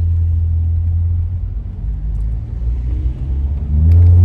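Car exhaust with a muffler delete giving a loud, low drone while driving. Near the end the engine pulls harder: its pitch rises and it gets louder.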